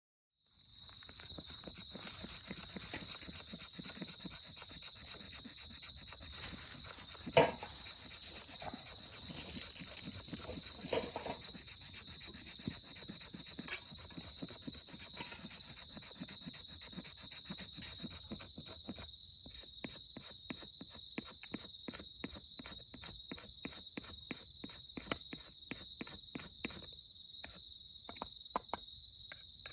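Insects, cricket-like, trilling steadily on one high note, with many small crackling clicks scattered through and one sharp snap about seven seconds in.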